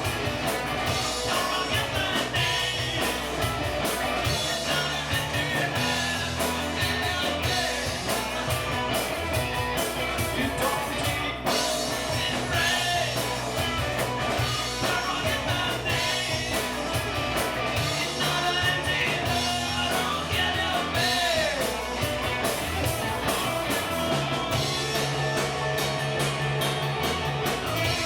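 Rock music with a singer, drum kit and guitars, played without a break.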